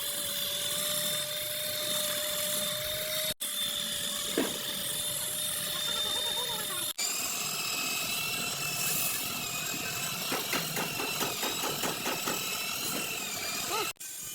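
An electric power tool running with a steady whine and a hiss. The sound breaks off abruptly twice and resumes at a different pitch. In the last few seconds there is a rapid rough chatter, like the tool working against metal.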